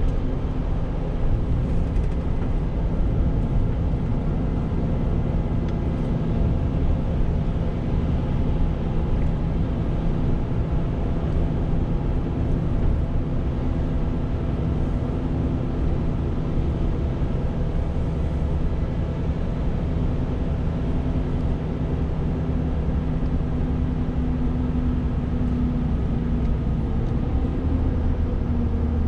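Renault T520 truck's six-cylinder diesel engine running at a steady speed while driving, with tyre and road noise underneath.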